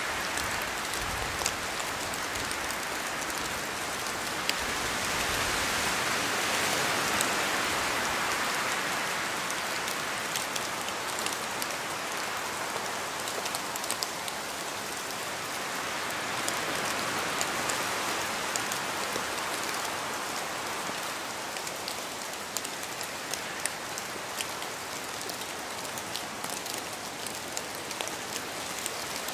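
Steady rain falling, a dense hiss with many individual drops ticking sharply on a hard surface, swelling and easing gently in intensity.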